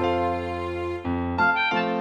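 Background music: gentle piano or electric piano melody over a sustained bass note, with notes changing about every half second.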